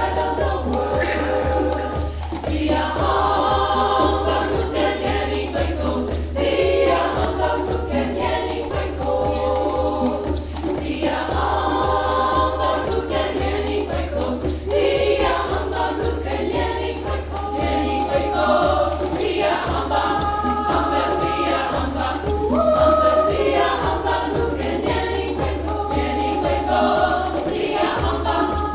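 Community choir singing in parts, in phrases that swell and break every few seconds, over a steady low hum.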